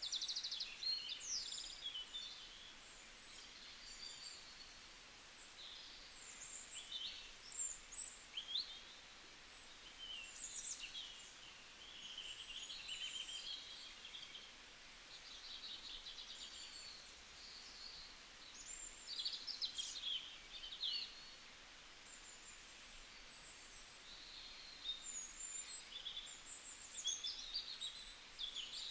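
Several small birds chirping and singing, with short calls, rapid trills and quick sweeping notes overlapping throughout, over a faint steady background hiss.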